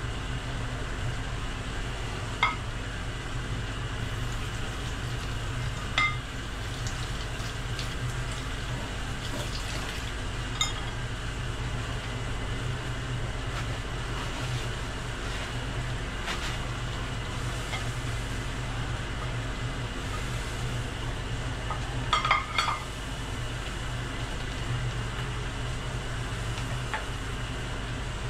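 Crab pieces frying under a lid in a pan, a steady sizzle while they steam through. A few sharp metal clinks stand out, with a quick cluster of them about two-thirds of the way through.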